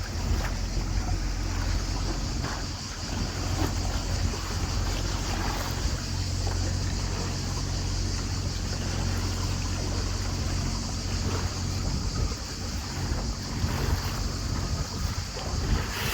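Tour boat's engine running steadily under way, a constant low hum, with water rushing along the hull and wind buffeting the microphone.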